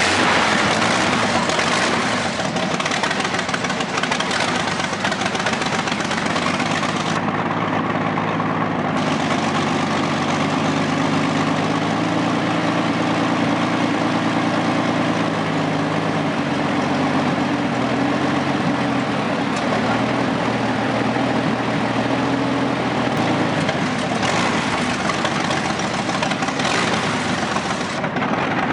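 A big engine running steadily at idle, with a low hum whose pitch drifts slightly up and down.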